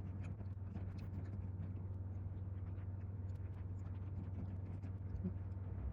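Steady low hum with faint scattered ticks and clicks.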